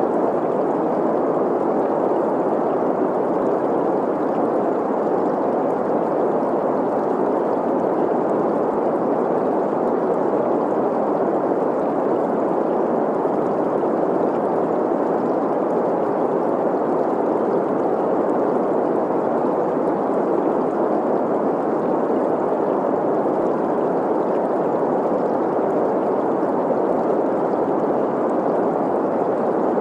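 Green noise: a steady, unchanging rush of noise centred in the middle of the range, blended with the sound of a flowing stream.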